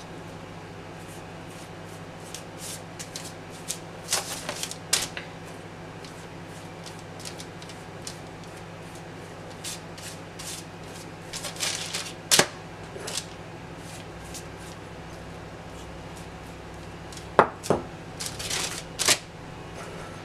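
Scattered light taps, clicks and rustles of the rolled chicken parcels being handled and set onto baking trays on a kitchen bench. The clatter comes in short clusters, a few seconds apart, over a steady low hum.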